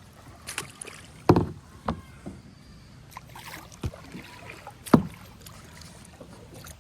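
Kayak paddling: a few sharp knocks and splashes from the paddle working against the water and the kayak's hull, the loudest about five seconds in, over a faint steady hiss.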